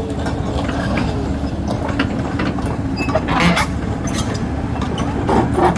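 Heavy diesel excavator engines running with a steady rumble, with intermittent metallic clanks and scrapes from the machines working, loudest around the middle and near the end.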